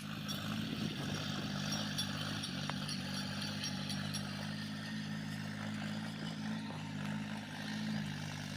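Tractor's diesel engine running steadily while ploughing a field, with a light clattering rattle over the engine note.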